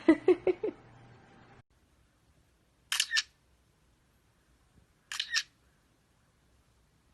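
Two camera shutter clicks about two seconds apart, each a quick double click, after a short run of quick pitched calls at the very start.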